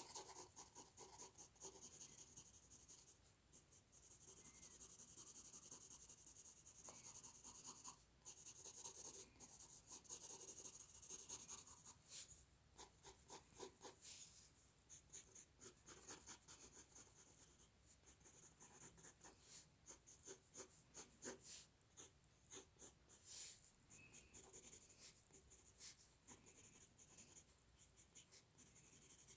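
Faint scratching of a drawing tool on paper during hand drawing. In the first several seconds the strokes are long and sustained, like shading; after that come many short, quick strokes.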